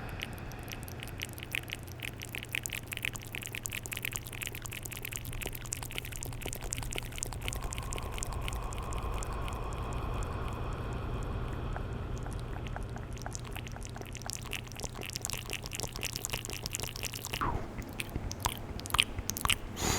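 Close-miked ASMR mouth sounds: rapid wet clicking and smacking of lips and tongue, continuous throughout, over a steady low hum.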